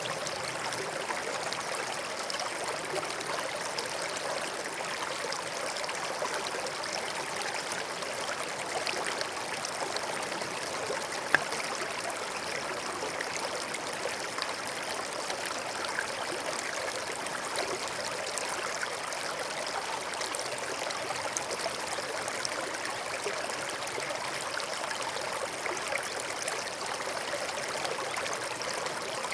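Small stream flowing steadily over stones, a continuous trickling and gurgling of water. One brief sharp click stands out about eleven seconds in.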